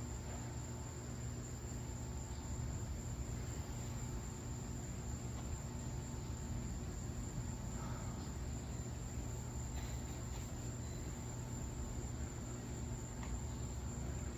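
Steady low hum of room background noise with a constant high-pitched whine, and a few faint clicks.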